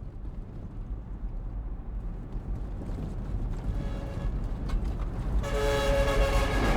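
Low vehicle rumble building steadily louder, then a loud, sustained vehicle horn blast that starts about five and a half seconds in.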